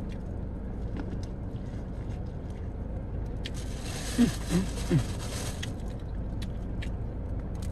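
Quiet chewing of corn on the cob, a few faint clicks, over a steady low hum inside a car. A short murmured vocal sound comes about four seconds in.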